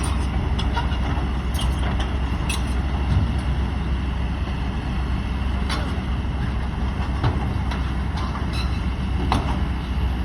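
Kobelco SK200 excavator's diesel engine running steadily with a deep drone, with a few short clanks and knocks over it.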